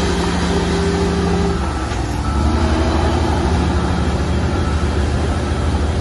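Heavy diesel earthmoving machinery running steadily. About two seconds in, the engine note changes and the low rumble grows heavier.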